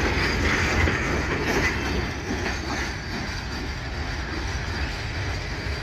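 Empty grain hopper wagons of a freight train rolling past, a steady rumble of steel wheels on the rails with faint clicks over the joints, easing off a little about two seconds in.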